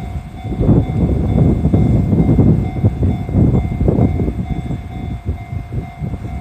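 Train rolling slowly over a level crossing: a low rumble with an uneven series of wheel knocks over the rail joints. A faint steady high tone runs underneath.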